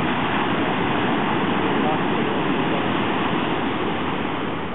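Steady rushing of ocean surf, easing slightly near the end.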